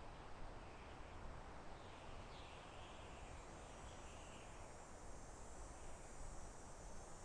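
Soft wind in a forest: a faint, steady rushing hiss, with faint high chirps now and then.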